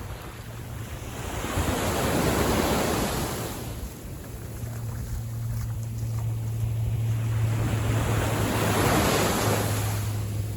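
Small waves on a calm sea breaking and washing up the beach, twice, with wind on the microphone. A low steady hum comes in about halfway through.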